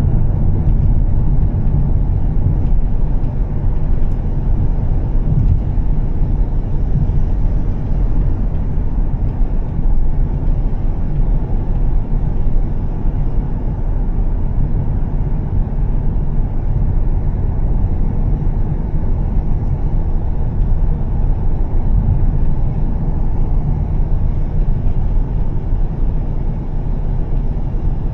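Volvo S60 T6 driving along the road, its turbocharged straight-six with Heico exhaust giving a steady low rumble mixed with road noise.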